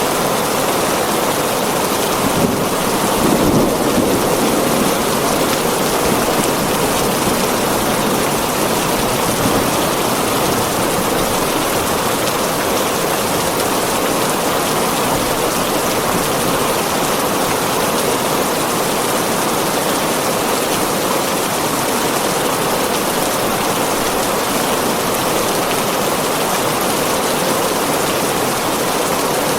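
Heavy rain drumming steadily on a tin roof, a dense, even hiss.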